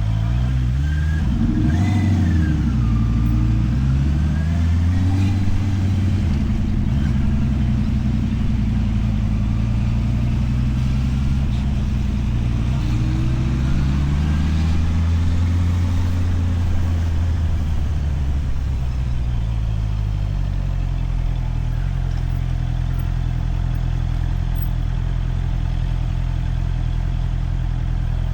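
Motorcycle engine revving up and easing off several times as it accelerates and slows, then dropping to a steady low note for the last several seconds.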